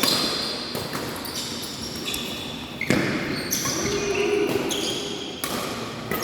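Badminton rackets striking a shuttlecock in a rally, a sharp hit every half second to second and a half, with high squeaks from shoes on the court floor, echoing in a large sports hall.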